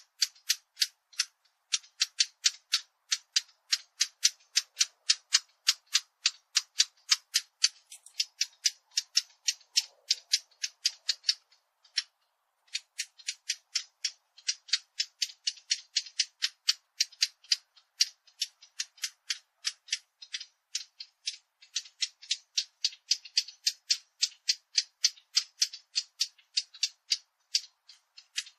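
A fig bird (عصفور التين) giving a rapid series of short, dry ticking calls, about four a second, with a brief pause about twelve seconds in.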